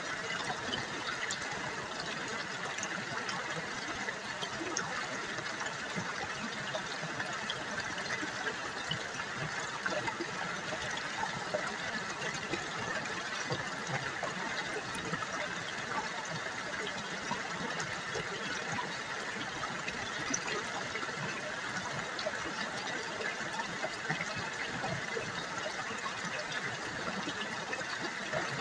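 River water trickling and babbling over rocks, a steady splashing with many small droplet ticks.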